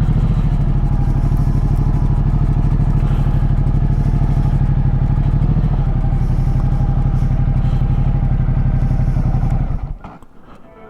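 Ducati Multistrada 1200's L-twin engine idling steadily with an even, rapid pulse. It cuts off abruptly near the end.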